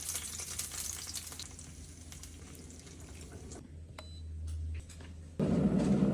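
Food sizzling in a frying pan for the first second or so, then fading. About five seconds in, a sudden, louder steady rush of liquid being poured begins.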